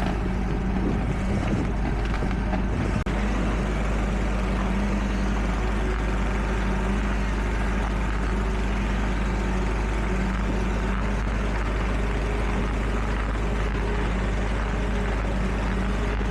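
Diesel engine of heavy construction machinery running steadily at a constant pitch, with a strong low rumble.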